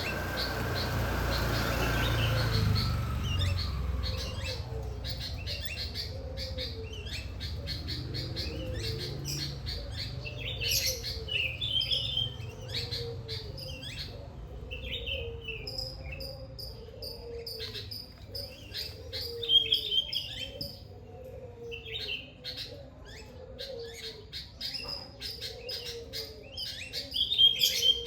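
Several songbirds chirping and calling, with a lower call repeated about once a second underneath. Over the first few seconds a low rumble with a falling whine fades away.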